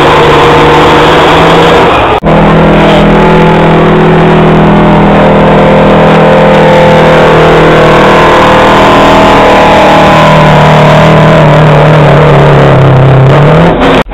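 Street semi truck's diesel engine running hard under load while pulling a weight sled, loud enough to overload the recording. The engine note holds steady, with a very brief break about two seconds in, sinks lower from about ten seconds in, rises briefly, then cuts off abruptly near the end.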